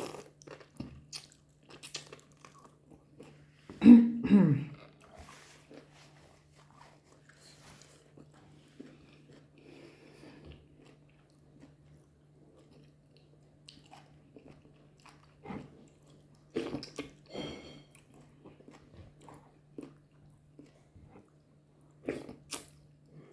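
Close-miked eating: a person chewing and biting goat meat and fufu, with wet mouth smacks and scattered clicks, and a louder burst about four seconds in.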